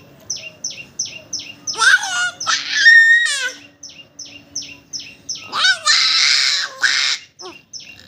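Small birds chirping in a steady, even rhythm of about three short high chirps a second. A child's voice breaks in twice with loud, high, gliding calls and squeals, about two seconds in and again about six seconds in; these are the loudest sounds.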